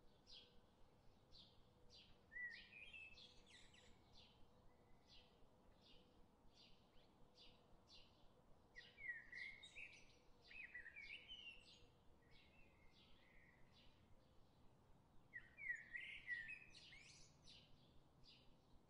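Faint birdsong: a short high chirp repeated about twice a second throughout, with three louder bursts of warbling song, about two seconds in, near the middle and near the end.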